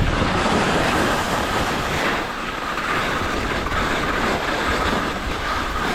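Skis scraping and chattering over firm, wind-affected snow during a descent: a loud, continuous rough rattle.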